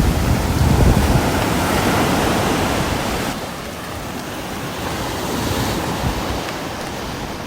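Steady rain: a dense, even hiss with a low rumble underneath, easing a little about three seconds in.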